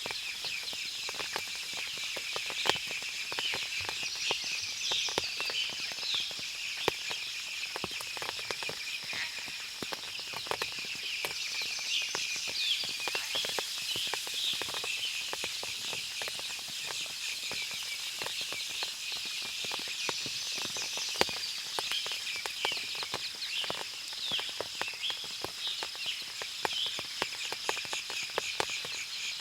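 Forest ambience after rain: birds chirping, a steady high-pitched drone, and many scattered sharp ticks of water dripping from the trees.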